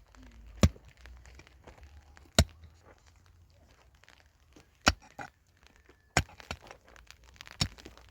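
Five sharp, heavy strikes spaced irregularly one to two and a half seconds apart, with lighter knocks and clatter between them: blows of a tool during shelter building.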